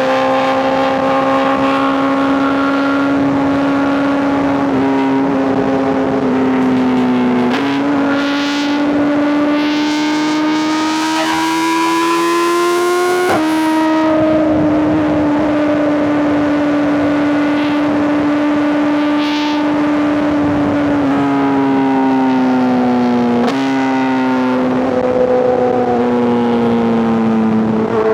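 Inline-four superbike engine and exhaust heard from the rider's seat at highway speed. The engine holds steady, then climbs in pitch under throttle for about five seconds with a rush of wind, and drops sharply at a gear change about halfway through. After that it runs steady again and falls in pitch as the throttle eases near the end.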